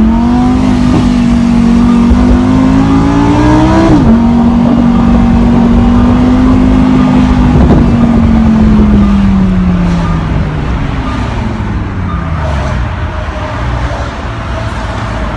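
Lamborghini Huracán Spyder's V10 engine pulling under acceleration, its pitch climbing until a quick upshift about four seconds in drops it. It then holds a steady note before falling away as the car slows, the engine quieter near the end.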